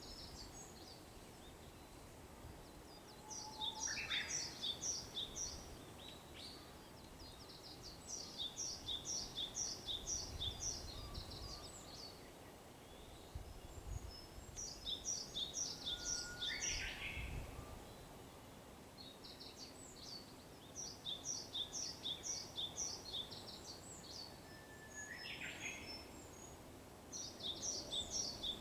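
A small songbird repeats quick, high two-note phrases in bursts of two to four seconds, every few seconds. Between the bursts, a Japanese bush warbler sings its 'hoo-hokekyo' more faintly three times: a long low whistle, then a quick flourish.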